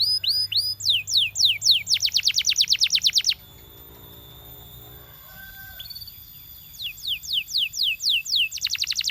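Canary singing: fast trills of repeated falling whistled notes, breaking off for about three seconds midway, then resuming with slower falling notes that speed up into a rapid trill near the end.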